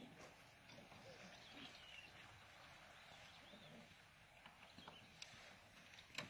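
Near silence with a few faint bird chirps and a single sharp click near the end.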